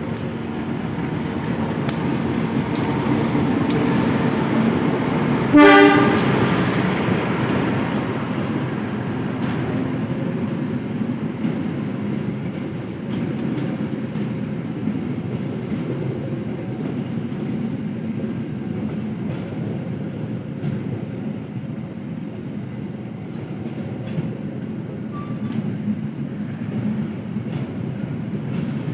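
Train running past with a steady low rumble, and one short horn blast about six seconds in, over a steady hiss of heavy rain.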